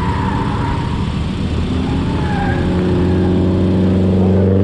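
Drift car engine running hard, its pitch holding fairly steady and then starting to climb near the end as the revs rise.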